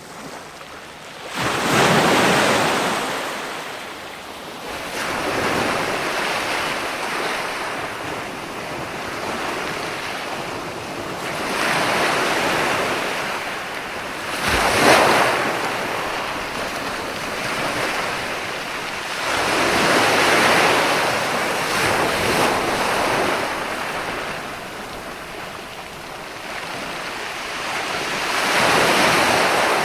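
Ocean waves breaking in surf, about six surges swelling and fading over half a minute, with the sharpest, loudest break about halfway through.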